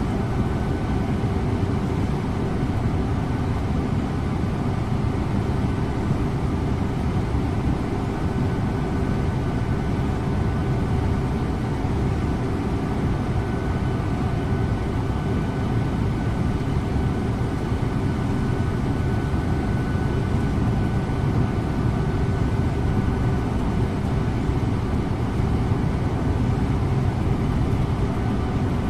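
A Scania InterLink bus driving at a steady speed, heard from the driver's seat: an even engine and road rumble with a faint steady whine above it, without changes.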